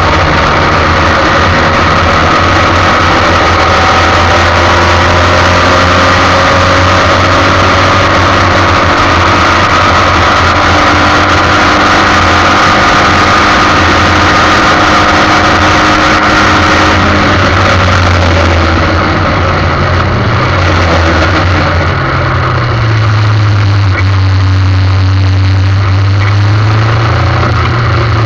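Formula 1600 single-seater race car engine running hard at racing revs. The note holds fairly steady, dips and changes about two-thirds of the way through as the revs shift, then settles again.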